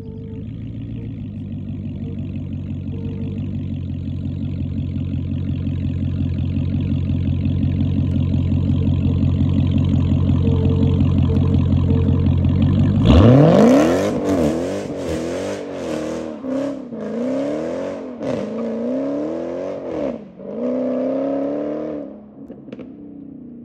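Straight-piped Dodge Challenger Hellcat's supercharged 6.2-litre Hemi V8 idling steadily, then, a little past halfway, revved hard and blipped repeatedly, its pitch rising and falling, before settling back to idle near the end.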